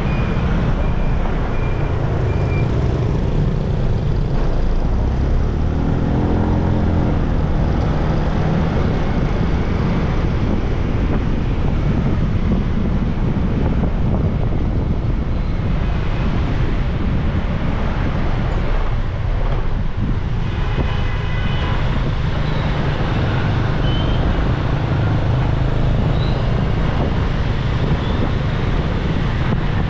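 Steady road and wind noise of a motorbike ride through traffic, with the engine's low hum and passing vehicles. Short pitched sounds come through about six and twenty-one seconds in.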